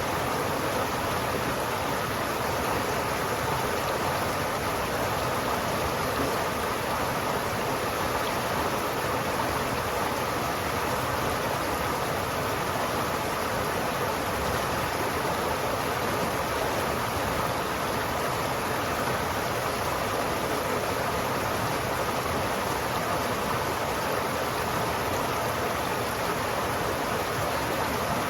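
River water flowing steadily, an even rushing sound without breaks.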